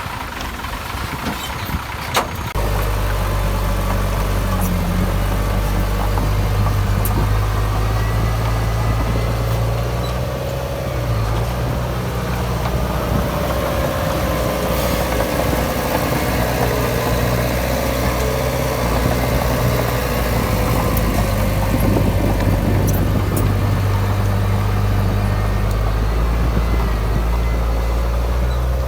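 Heavy diesel engine of an earthmoving machine running steadily with a deep drone. It comes in abruptly just after a sharp knock about two seconds in.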